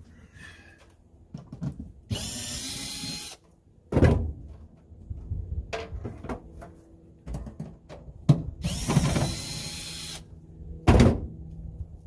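Power drill/driver running in two short bursts of about a second each, with a few sharp clunks between them.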